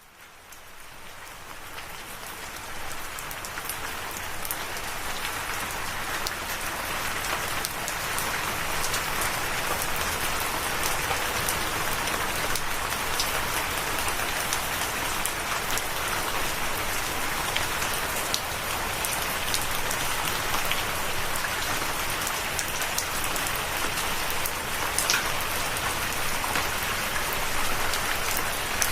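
Steady rain falling, fading in from silence over the first several seconds, with scattered sharp ticks of individual drops.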